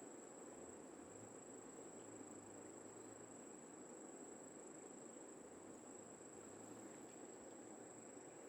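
Insects trilling without a break, a faint high-pitched continuous tone, over a soft low background hiss.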